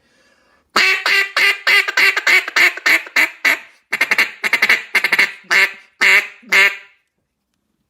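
Hard-cast acrylic cut-down duck call with its MC50 round-hole insert, blown as a mallard hen: a fast run of very loud quacks, then a handful of slower, spaced quacks near the end.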